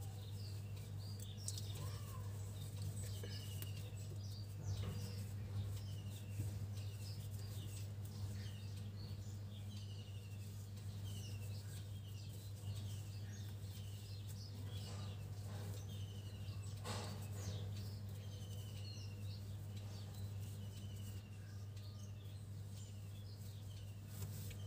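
Birds chirping: a short falling chirp repeated roughly once a second, mixed with other brief higher chirps, over a steady low hum. A short rustle comes about two-thirds of the way through.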